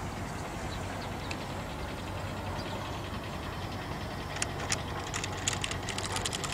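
Steady outdoor background noise with a faint low hum, and a few short sharp clicks in the second half.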